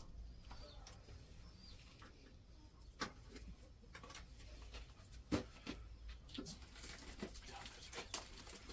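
Faint bird calls over a low background, with a few scattered sharp clicks or taps, the loudest about three seconds in and again after five seconds.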